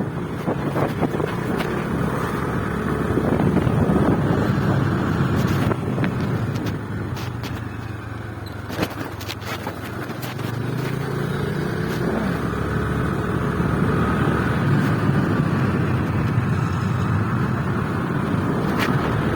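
Motorcycle engine running on the move, its pitch rising slightly about ten seconds in, over a steady rumble of road and wind noise.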